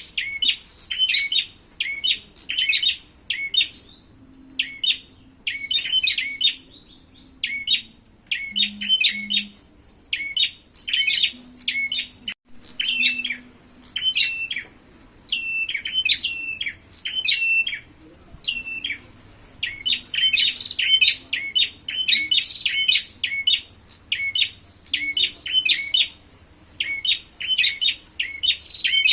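Prenjak songbirds giving their fighting call: rapid bursts of sharp, high chirps repeated about once or twice a second, with brief pauses and a few longer drawn-out notes midway.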